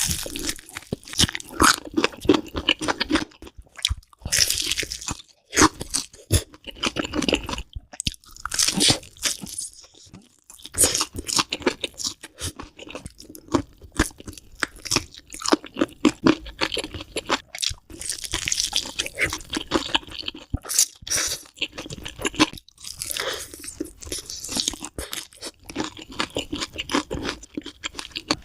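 Close-miked crunching and chewing of crisp food, a dense run of irregular sharp crackles with a few brief pauses.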